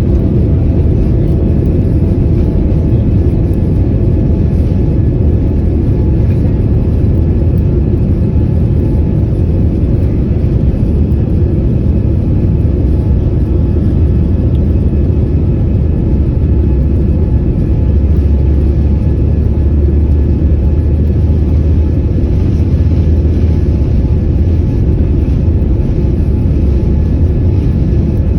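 Steady loud rumble inside the cabin of an Airbus A330-300 airliner: engine and airflow noise, swelling slightly past the middle.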